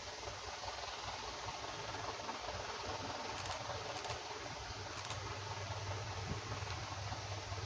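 TEM2M diesel shunting locomotive's engine running, a steady low hum that grows stronger over the last couple of seconds. Three faint clicks come in the middle.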